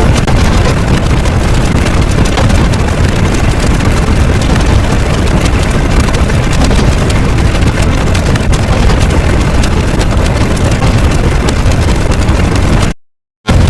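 Loud, steady rumbling noise with no clear pitch, cutting out suddenly for about half a second near the end before starting again.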